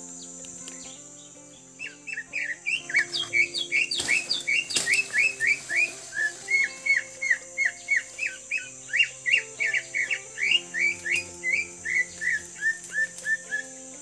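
Green leafbird (cucak ijo) song: a long run of quick, sharp whistled notes, about three a second, starting about two seconds in and stepping down in pitch near the end. Background music with sustained notes plays underneath, and there are two sharp knocks about four seconds in.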